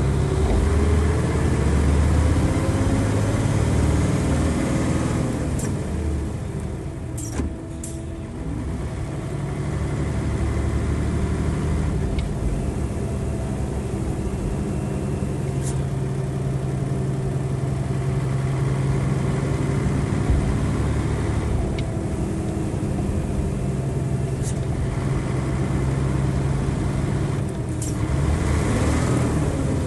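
Bus's Nissan Diesel FE92TA turbocharged diesel engine under way, revving high. Its pitch rises over the first few seconds, it eases off with a drop in level about seven seconds in, then runs steadily and starts climbing again near the end. A few short clicks are heard along the way.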